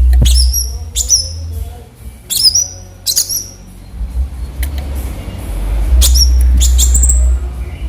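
Cucak cungkok giving a series of short, sharp high-pitched calls, each dipping and then levelling off, about seven in all with a pause in the middle. A loud low rumble sits under the calls at the start and again near the end.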